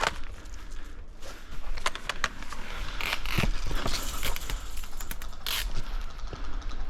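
Scraping and rustling with many scattered sharp clicks, as of an airsoft player's clothing and gear moving.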